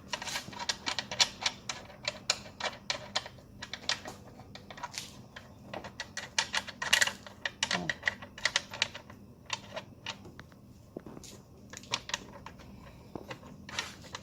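Irregular clicks and taps of hand tools and small parts being handled while working on a car engine, with no steady rhythm.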